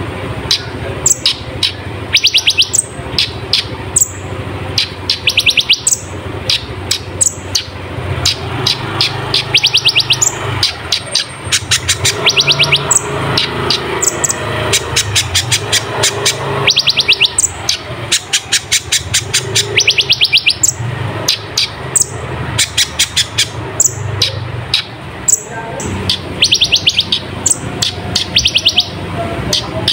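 Kolibri ninja sunbird singing energetically: rapid trills of high, sharp notes that drop in pitch, repeated in bursts every second or two, over a steady low hum.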